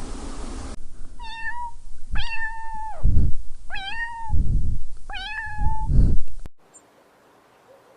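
A domestic cat meowing four times, each meow a clear pitched call, with low dull thuds after the later meows. The sound cuts off suddenly about six and a half seconds in.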